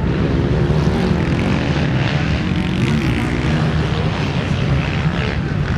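Motocross bikes racing on the track, their engines running continuously.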